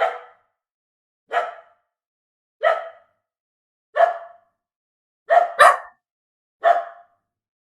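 A dog barking seven times at an even pace, a little over a second apart, with two barks in quick succession near the end.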